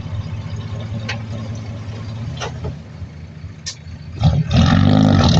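Heavy diesel earthmoving machinery running, with a few sharp clanks; about four seconds in the engine grows much louder.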